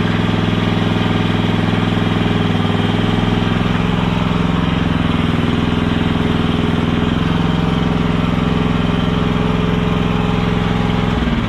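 Engine of a compact machine running steadily at idle, then shut off near the end, its note dropping away as it stops.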